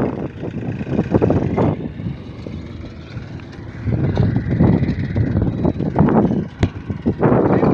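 Tractor engine running, its loudness rising and falling irregularly.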